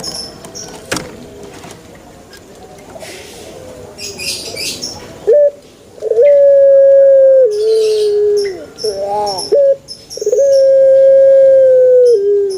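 Male ringneck dove (burung puter) cooing: two long, loud, drawn-out coos, each held on one steady note and then dropping lower at the end. Short high chirps from a small bird come in between the coos.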